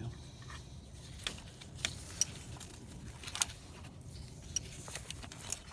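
Scattered light metallic clicks and scrapes of a hand tool picking tarry carbon deposits out of the intake valve ports of a Chevy Trailblazer's inline-six engine, about six sharp ticks spread over a few seconds.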